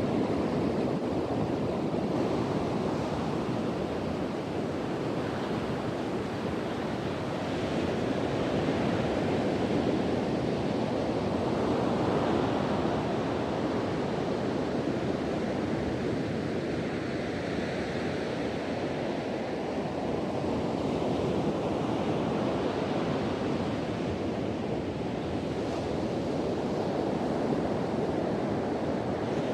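Ocean surf washing on a beach with wind blowing: a steady rushing noise that slowly swells and eases in loudness as waves come in.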